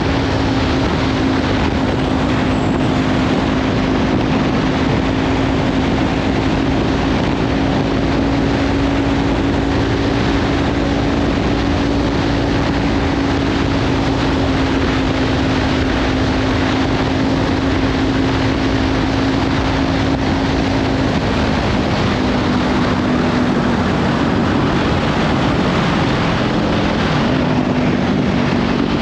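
Kawasaki Ninja 500 parallel-twin engine with a Leovince slip-on exhaust running at a steady cruise, heavily masked by wind noise on the microphone. The engine note holds steady, then drops slightly in pitch and wavers about two-thirds of the way through.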